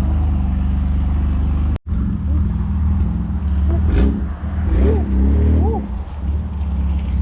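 BMW S55 twin-turbo straight-six running at a steady idle, loud and deep through catless downpipes and a valved axle-back with the valves open. There is a brief dropout about two seconds in.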